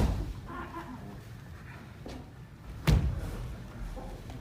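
Kendo bout sounds: two sharp stamp-and-strike impacts, one at the start and one about three seconds in. These are a fencer's stamping footwork on a wooden floor together with a bamboo sword hitting armour.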